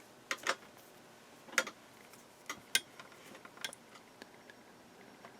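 Light, irregular clicks and taps, about eight in all, of multimeter probe tips touching pins on a circuit board during a continuity check, with no continuity beep.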